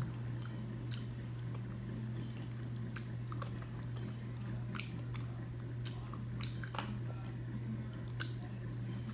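A person chewing and biting char-broiled oysters, with scattered short, wet mouth clicks over a steady low hum.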